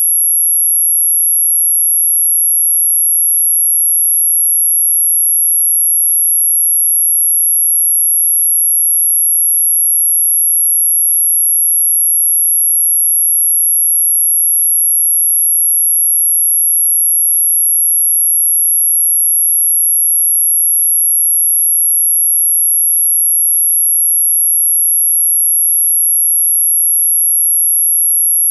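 A single steady, very high-pitched pure tone, held without any change: an anti-mosquito repellent tone.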